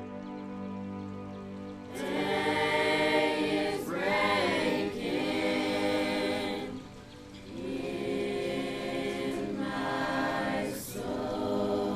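Music: a held chord, then about two seconds in a group of voices starts singing together in phrases, choir-like.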